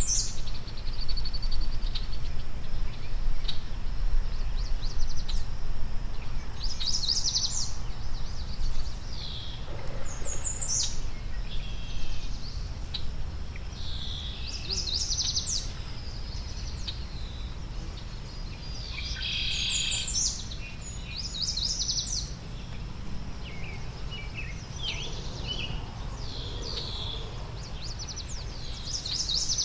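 Bird song: short, high chirping phrases repeated every few seconds, over a steady low rumble.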